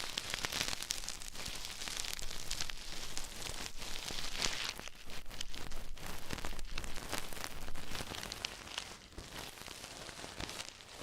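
Ear-cleaning tools scratching and rustling against a microphone's ear, a close crackling scrape that swells and fades unevenly and grows quieter near the end.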